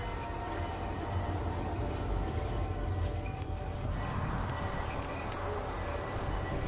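Passenger train running, heard as from inside a carriage: a steady low rumble of the wheels on the track, with a constant thin high-pitched hiss above it.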